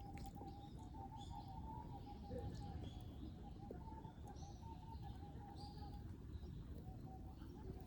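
Small birds chirping, short calls scattered throughout, over a low steady rumble of outdoor noise and a faint wavering steady tone.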